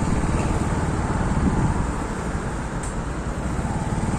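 Motorcycle running along the road, with wind rumbling on the microphone.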